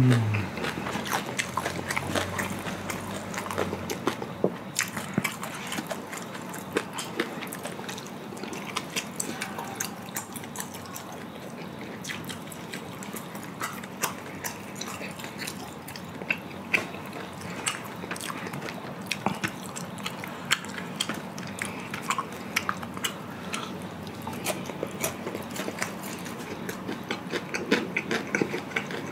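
Close-miked chewing and biting of black-bean instant noodles and glazed fried chicken, with dense wet mouth clicks and smacks throughout.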